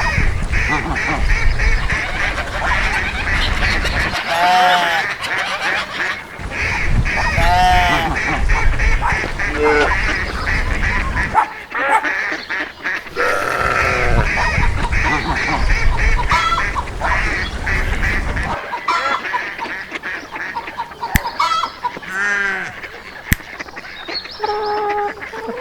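A flock of geese honking and ducks quacking in a dense, continuous chatter, with a few louder single honks standing out. A low rumble comes and goes underneath in several long stretches.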